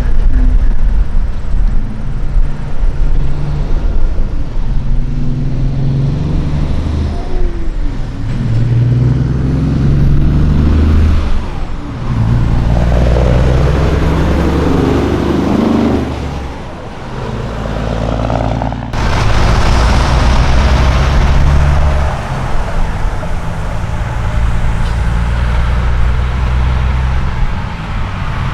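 Diesel engines of semi trucks running and moving slowly past, the engine note rising and falling with speed. The sound changes abruptly about two-thirds of the way through.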